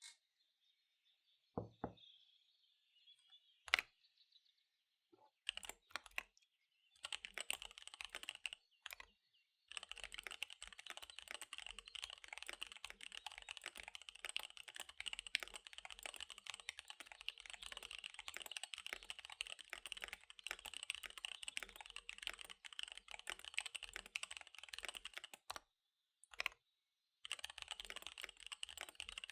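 Fast typing on a KBD75 V3 mechanical keyboard with SP-Star Dark Magic Girl tactile switches and DSA keycaps: a few scattered keystrokes at first, then a steady rapid run of clacks from about seven seconds in, with a short break near the end. Faint recorded birdsong sits under the first few seconds.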